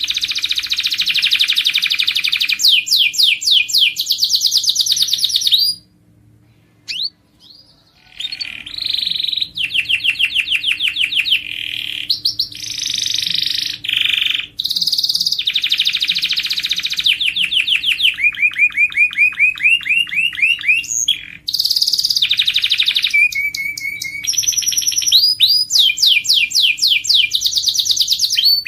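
Domestic canary singing a long song of fast trills and rolls, each phrase a rapid run of repeated notes, some rising, some falling. The song breaks off for about two seconds some six seconds in, then carries on.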